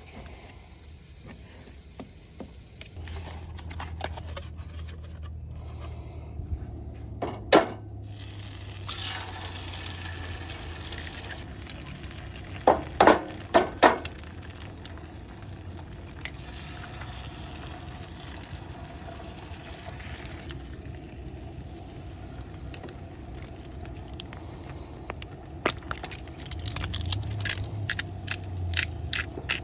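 Food sizzling in a pan on a camp burner stove, with a few sharp clanks of a utensil against the pan about a quarter of the way and halfway through, and a run of quick clicks near the end.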